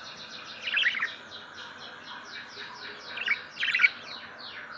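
Cage birds chirping: a fast run of short falling chirps, about five a second, with a few louder chirps about a second in and twice more around three and a half seconds in.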